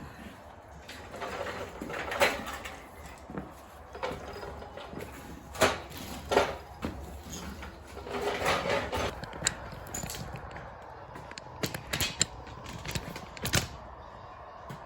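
Irregular knocks, clicks and short scraping sounds of things being handled and moved about, with no steady motor running.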